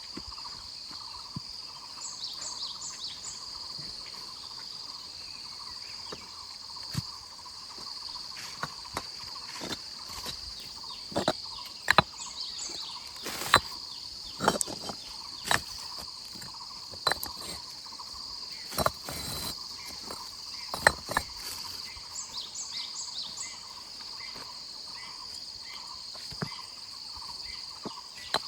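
Steady high-pitched insect chorus, crickets or cicadas, with short high chirps in groups of about four. Scattered sharp knocks and clicks, the loudest sounds, come mostly in the middle stretch.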